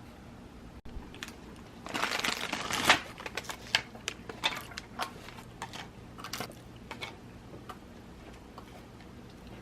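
Quiet room tone, then about two seconds in a brief burst of rustling and crinkling, followed by a few seconds of scattered light clicks and taps, as of something being handled close to the microphone.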